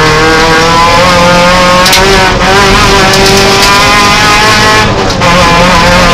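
Peugeot 309 rally car's engine at high revs, heard from inside the cabin, its note rising and falling as it is driven hard, with brief dips about two and a half and five seconds in.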